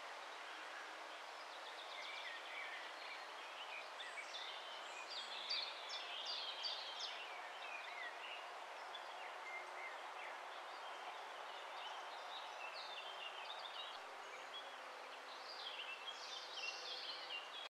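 Small birds singing: quick, high chirping and twittering phrases that repeat in short bursts, starting about two seconds in, over a steady background hiss.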